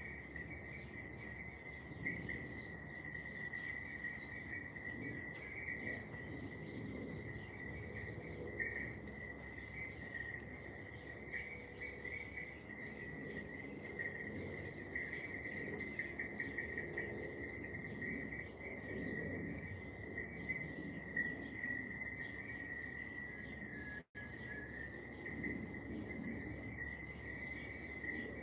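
Steady insect chirring, a continuous high-pitched trill that runs without a break, with faint bird chirps over it and a low background rumble. The sound cuts out for an instant a few seconds before the end.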